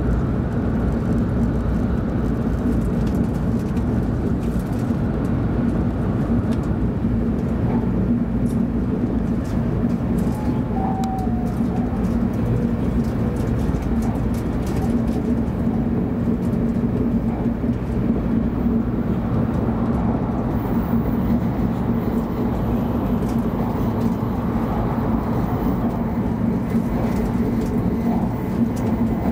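Cabin noise of a 700 series Shinkansen running at high speed: a steady rumble and rush with a constant low hum.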